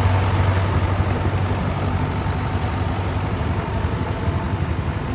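Rice-harvesting farm machine's diesel engine running steadily, a continuous low hum.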